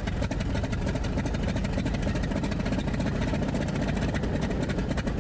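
North American T-28 Trojan's radial engine idling steadily just after start-up, still cold.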